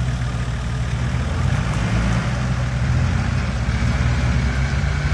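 Four-wheel-drive vehicle's engine running steadily at low revs, a little louder from about a second and a half in.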